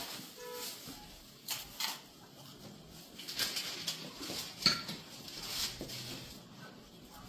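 A few sharp knocks and clinks, like small hard objects being handled, over faint background hiss.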